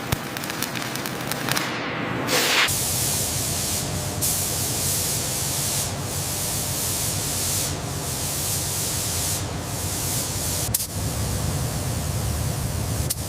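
Abrasive blasting nozzle giving a steady, loud hiss of air and grit, with a low rumble underneath from about a few seconds in.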